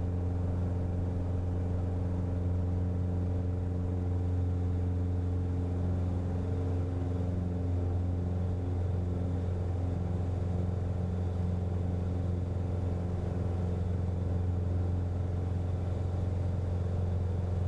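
Cessna 177RG Cardinal's four-cylinder Lycoming engine and propeller running at full takeoff power, a deep steady drone; from about six seconds in its upper tones waver slightly.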